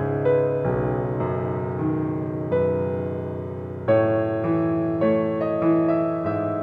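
Piano music: a slow, calm piece of chords and melody notes, each struck and left to ring and fade, with a stronger chord about four seconds in.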